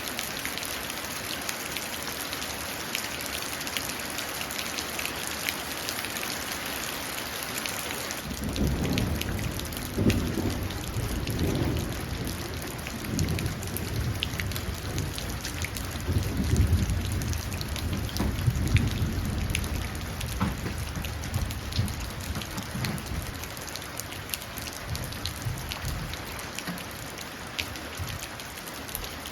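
Steady rain pattering down and running into a puddle. About eight seconds in, low thunder starts to rumble and rolls in several swells for about fifteen seconds before dying away, while the rain carries on.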